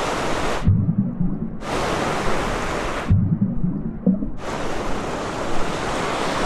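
Stormy open sea, with waves washing and hissing. Twice it drops to a muffled underwater rumble as the sound goes below the surface, about a second in and again around three seconds in. Each time it resurfaces after about a second.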